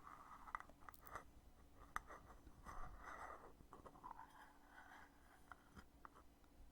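The heavy lid of a cosmetic foundation container being opened and closed, faint: a few sharp clicks with soft scraping and handling in between.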